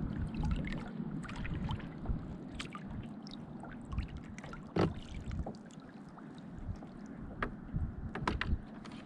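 Water lapping and splashing against a kayak's hull, with many small irregular clicks and ticks over a steady low rumble, the loudest splash about five seconds in.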